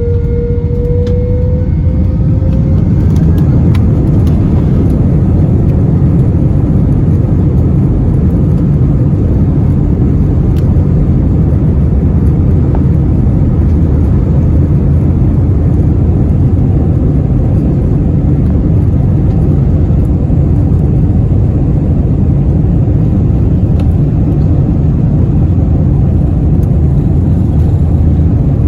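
Airbus A321 jet engines spooling up to takeoff thrust, heard from the cabin. A whine climbs slightly over the first couple of seconds, then gives way to a loud, steady low rumble of the takeoff roll.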